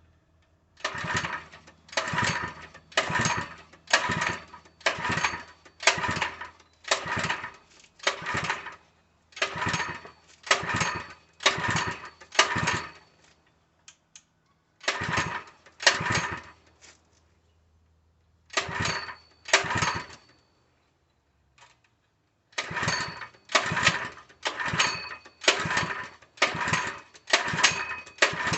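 Small 3 hp engine being pull-started over and over: each pull gives a short cranking whir from the recoil starter, about one pull a second in runs of several with a few short pauses, and the engine never catches. It is choked hard, and the owner takes the failure to start for a fuel delivery problem.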